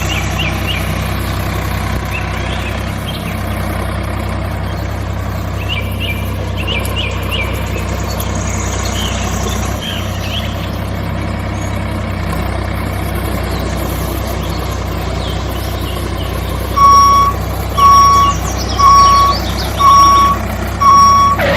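A vehicle engine running with a steady low drone while birds chirp. Near the end a reversing alarm sounds five beeps, about one a second.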